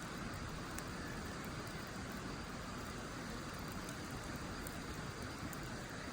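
Wood campfire burning in a fire pit, with a few faint crackles and pops over a steady rushing hiss.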